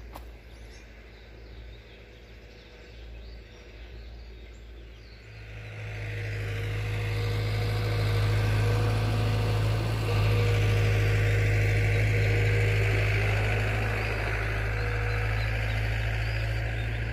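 Engine of a heavy earthworks machine running: it grows louder about five seconds in, then holds a steady drone.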